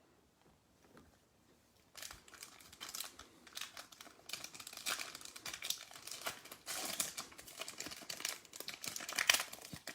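Foil trading-card pack being torn open and its wrapper crinkled, starting about two seconds in, with irregular crackles and a few louder rips.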